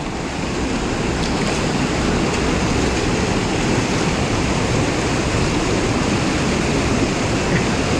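Whitewater rushing steadily through a river rapid and play hole.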